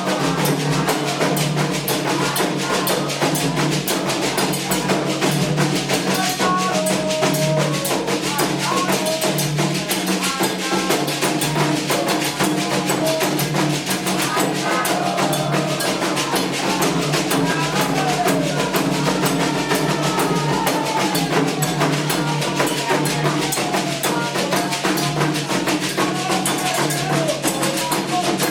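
Candomblé ritual drumming: atabaque hand drums play a fast, steady rhythm, with wavering sung melody over it.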